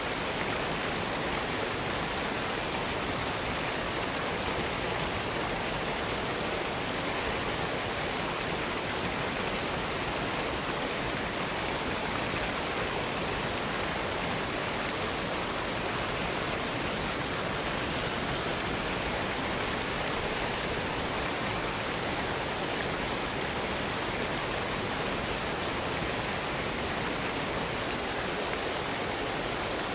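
A waterfall rushing: a steady, even roar of falling water that does not change.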